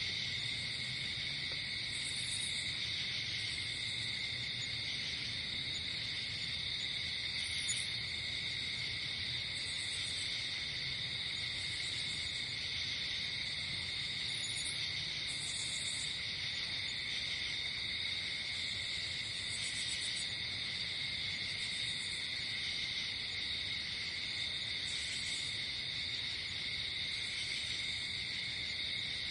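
Night-time insect chorus: crickets trilling steadily and without a break, with a higher-pitched insect chirping in short bursts every second or two.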